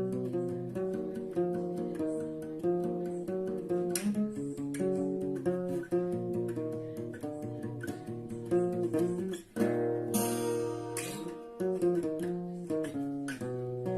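Acoustic guitar music, plucked notes with occasional strummed chords.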